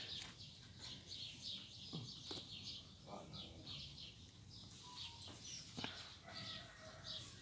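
Small birds chirping and twittering: many short, high calls overlapping, with a few faint clicks among them.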